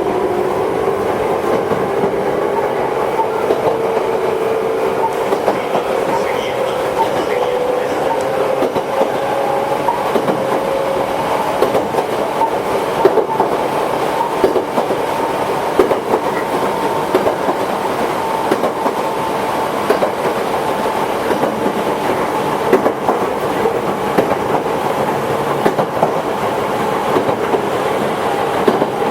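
Toyohashi Railway 1800 series electric train running. A motor whine rises slowly in pitch for about the first ten seconds as the train picks up speed, then fades, while the wheels click steadily over the rail joints.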